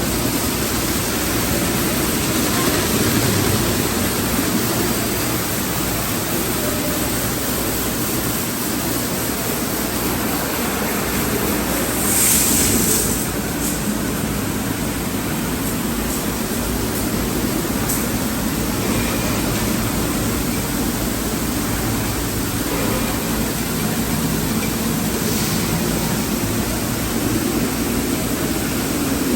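Automatic car wash tunnel equipment running: a steady rush of water spray and machinery, with a brief louder hiss about twelve seconds in.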